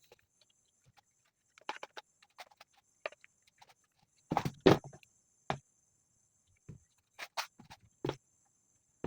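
Scattered clicks and knocks of parts and tools being handled while working on a brush cutter, with a louder cluster of two or three knocks about halfway through.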